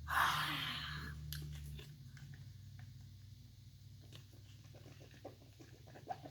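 A child chewing candy with soft, scattered mouth clicks, after a short breathy noise at the start. A low background hum cuts off about two seconds in.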